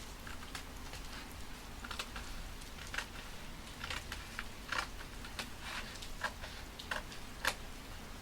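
Paper and stickers being handled on a journal page: irregular small taps and crisp crinkles, over a faint steady hiss of rain.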